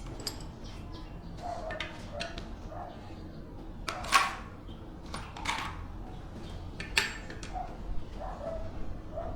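Scattered clinks and knocks of hand work on metal compressor parts, two louder knocks about four and seven seconds in, with a few short squeaks between them.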